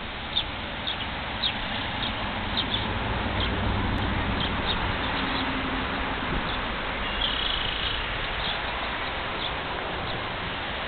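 Short, high bird chirps repeated every second or so over a steady outdoor background hiss, with one longer, held chirp a little past the middle.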